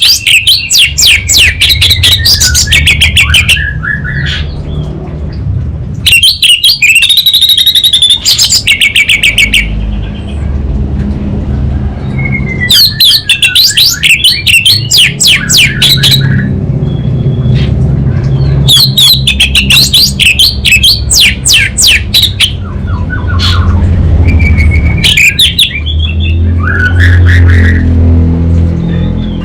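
Orange-headed thrush singing in loud bursts of very rapid, crackling trills, several phrases a few seconds long with short pauses between them, over a steady low hum.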